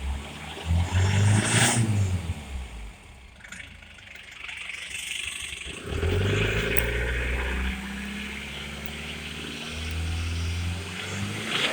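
Foton Tunland's 2.8-litre four-cylinder turbo-diesel engine being revved several times and settling back between blips, in a test run of an engine that tested good.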